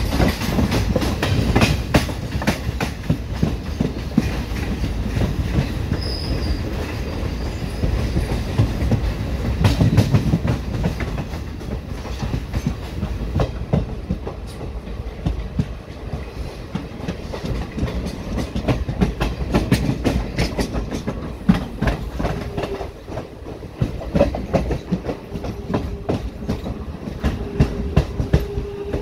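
Indian Railways passenger coaches rolling over rail joints and points, heard from the open coach door: a steady low rumble with frequent clicks and clacks of the wheels. A steady squeal joins in over the last several seconds as the train runs in alongside the platform.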